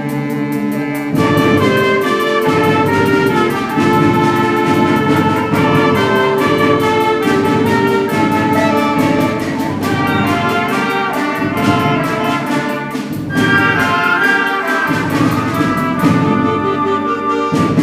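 School concert band playing, with brass prominent over the woodwinds and a steady rhythmic pulse underneath. The full band swells in about a second in.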